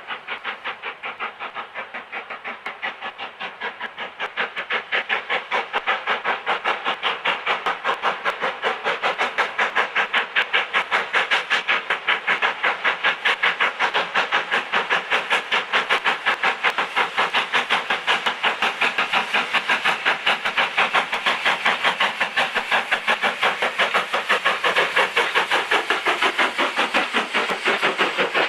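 Small industrial steam tank locomotive working steadily, its exhaust chuffs coming fast and even at about four a second. The chuffs grow louder a few seconds in and stay loud.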